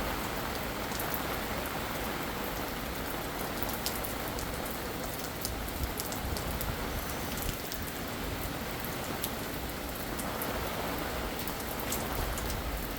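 Steady thunderstorm rain falling and splashing on surfaces, with sharp individual drops ticking now and then.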